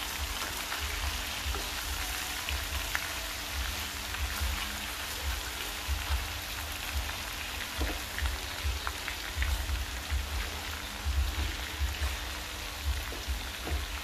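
Field-rat pieces with lemongrass and chili frying in hot oil in a pan, a steady sizzle with fine crackling, with irregular low bumps underneath.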